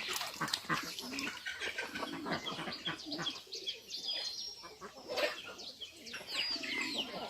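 Farmyard birds chirping and calling, many short high calls overlapping one another, with a few lower poultry calls among them.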